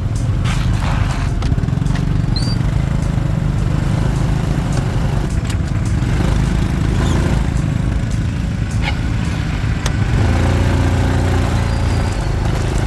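Motorbike engine running while riding, under a steady low rumble. A clearer, steady engine note comes through about ten seconds in.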